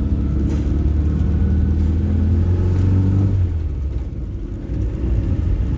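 A 1979 Toyota Corolla KE30's 1.2-litre four-cylinder engine pulls steadily under throttle, heard from the cabin with the windows down, then eases off about three and a half seconds in. It runs quiet and smooth, without grinding, on freshly replaced conrod bearings after an oil-pump fault.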